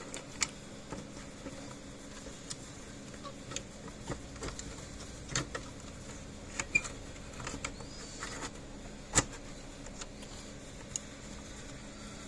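Irregular light clicks and taps of small plastic parts and a fence charger case being handled and fitted together by hand, with one sharper click about nine seconds in. A faint steady hum runs underneath.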